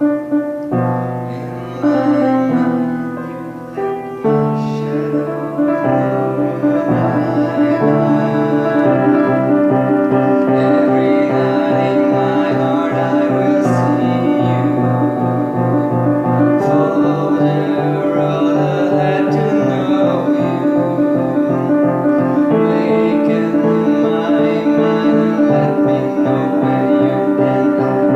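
Piano music: chords that build up over the first few seconds, then settle into fast repeated notes over a steady bass.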